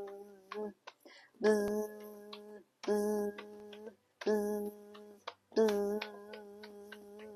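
A person imitating a bee by buzzing with the voice: a steady, low, even-pitched hum sounded in about five separate buzzes of roughly a second each, with short gaps between, the last one held longer. Faint clicks come in between.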